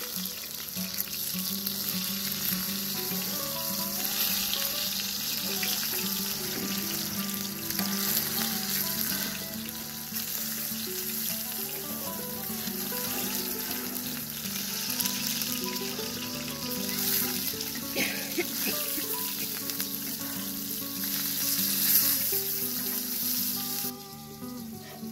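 Eggplant slices frying in hot oil in a wide black frying pan, a steady sizzle that cuts off abruptly near the end.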